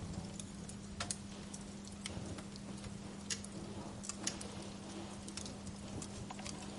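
Wood fire crackling, with irregular sharp pops and snaps over a soft rumble, and a steady low hum underneath.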